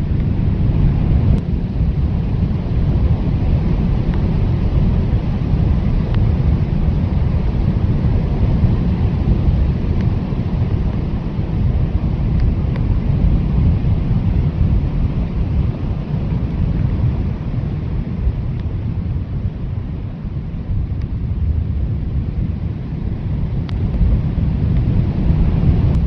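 Blizzard wind blowing hard and steadily, mostly a deep low rumble with a fainter hiss above it, easing a little about twenty seconds in and gusting up again near the end.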